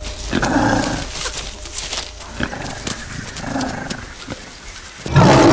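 Wild animal calls: a few short calls spread through the first few seconds, then a much louder, longer call starting near the end.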